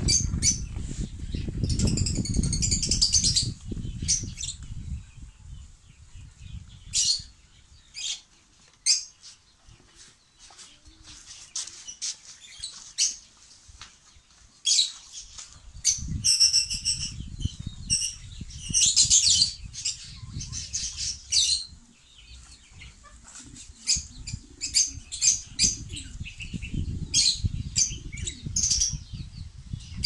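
Small birds chirping in quick high bursts, thickest about two seconds in and again from about seventeen to twenty-one seconds, over a low rustling rumble that comes and goes.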